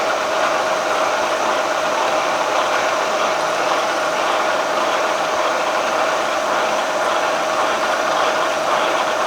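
Milling machine running steadily with a constant whine while drilling out a hole in a hardened steel crankshaft.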